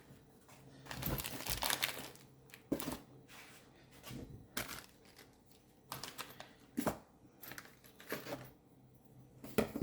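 Packaging and loose accessories being handled and pushed aside: plastic and paper crinkling, with a few sharp knocks as things are set down on the table.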